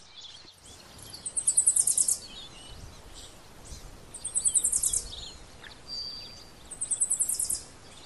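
Birdsong: a rapid high-pitched trill comes three times, each bout under a second, about every two and a half seconds, with fainter chirps and a short whistle between.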